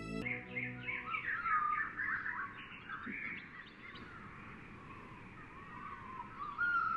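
Several small birds chirping and twittering in short quick sweeping notes, busiest in the first three seconds, then thinning out, with a few more calls near the end.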